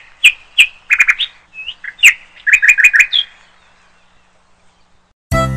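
Short, high bird chirps, singly and in quick runs of up to five, stopping a little over three seconds in. A bright musical jingle starts just before the end.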